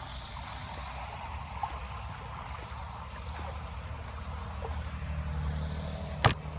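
Water running and trickling under a steady low rumble, with one sharp knock about six seconds in.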